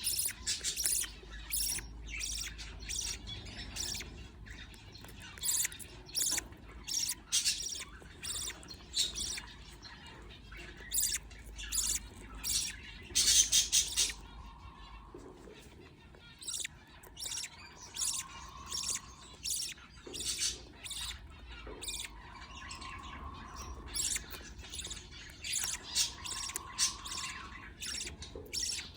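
Budgerigars chirping and squawking in quick, short, high calls, typical of chicks begging while a parent budgie feeds them; there is a loud flurry about 13 seconds in.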